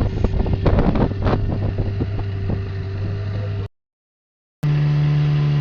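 Motorboat engine running steadily with wind on the microphone and occasional knocks. Past the halfway point the sound drops out completely for about a second, then returns with the engine running at a higher pitch.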